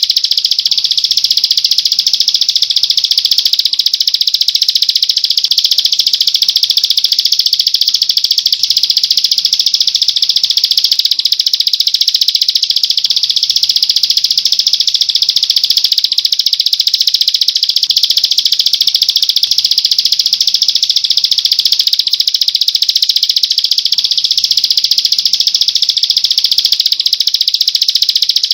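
Songbird trilling: a very rapid, unbroken high-pitched trill that runs on without pause, a birdsong recording used to tutor caged songbirds.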